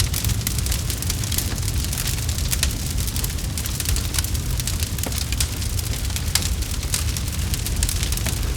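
Campfire crackling: a dense, irregular stream of sharp pops and snaps over a steady low rumble from the burning fire.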